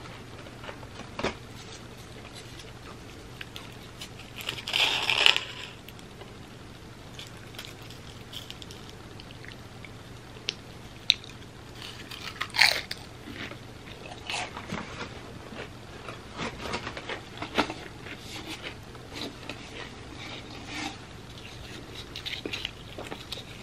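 Close-up crunching of chips loaded with cheesy dip being bitten and chewed: loud crunchy bites about five and twelve seconds in, then a run of softer crunching chews.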